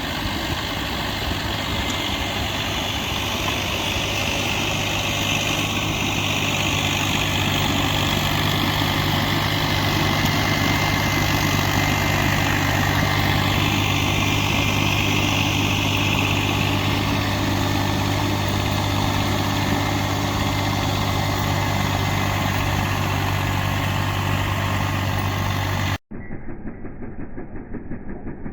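New Holland tractor's engine running steadily, growing a little louder a few seconds in. Near the end it cuts off abruptly to a muffled, rhythmic chugging.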